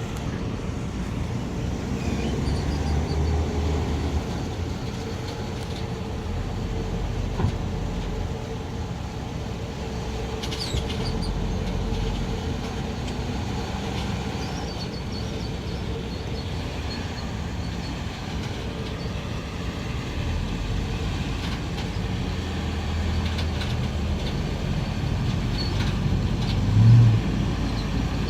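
The engine of a 2006 Chevy Malibu running steadily while the car is driven in reverse, the only gear its broken transmission still has. There is a short louder low burst near the end.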